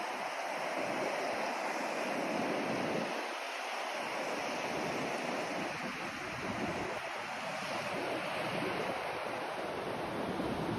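Steady rushing white noise for sleep: an even hiss with no tones or rhythm, its deepest part dropping away briefly a few seconds in.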